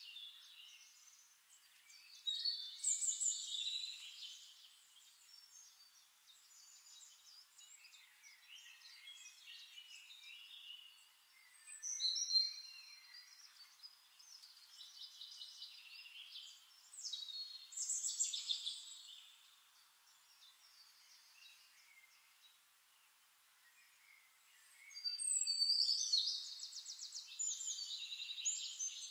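Birdsong: birds chirping and trilling in scattered bursts, with a rapid trill near the end.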